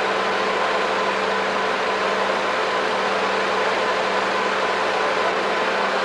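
Heavy construction machinery engine running steadily, a continuous hum over a noisy hiss.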